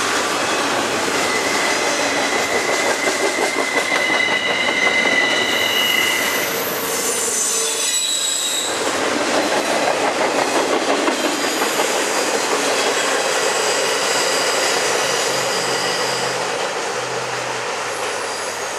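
Double-stack intermodal container cars rolling past, their steel wheels rumbling and clattering on the rails, with high, steady wheel squeal coming and going. The sound breaks off briefly about eight seconds in.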